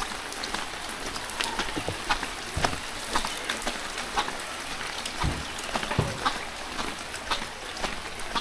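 Steady rain with many sharp drop clicks close to the microphone, and a few heavier thuds.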